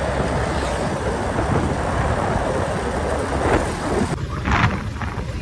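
Wind rushing over the microphone with engine and road noise from a moving motorbike, heard while riding pillion.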